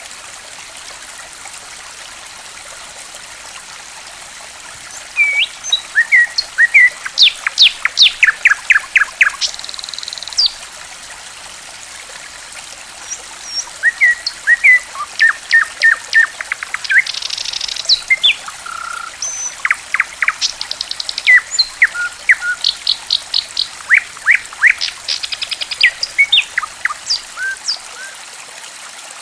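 Songbird chirping in two long bouts of quick, sharp whistled notes and short buzzy trills, over a steady trickle of running water.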